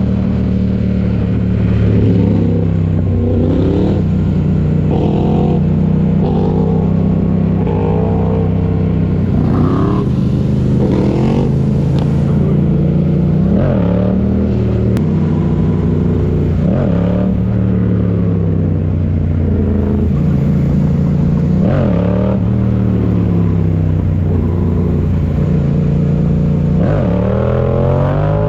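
Motorcycle engine running steadily, with repeated quick revs that rise and fall in pitch every few seconds.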